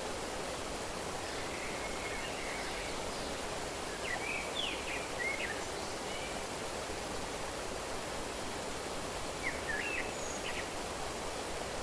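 Steady rushing of running water, with small birds chirping in short clusters about two seconds in, around five seconds, and again near ten seconds.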